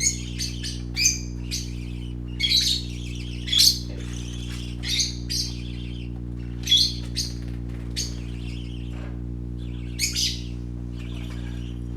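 Pet parakeets chirping and squawking in short, high calls, several at a time, scattered irregularly, over a steady low hum.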